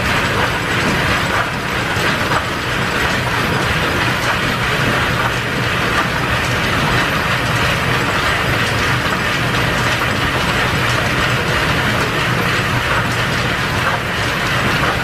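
Steam-driven metal lathe running steadily as it takes a turning cut along a shaft, with a continuous mechanical clatter.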